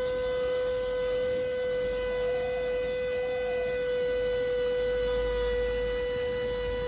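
Portable rechargeable 12 W handheld mini vacuum cleaner running, its small motor giving a steady whine that holds one pitch throughout.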